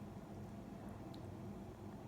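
Quiet room tone: a faint steady low hum, with one faint tick about a second in.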